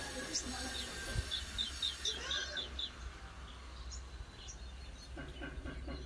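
Bird chirping: a quick run of about seven short, high chirps a second or so in, then a few scattered chirps, over a low steady rumble.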